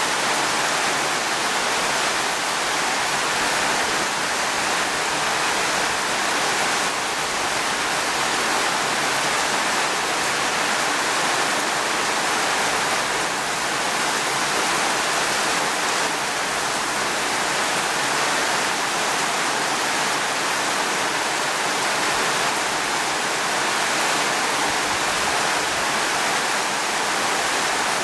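Steady heavy rain: an even, dense hiss that stays level throughout.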